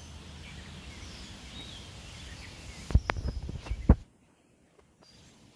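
Birds chirping over steady outdoor background noise. About three seconds in, a burst of knocks and thumps comes from the camera being picked up and moved, and then the sound drops off sharply to near silence.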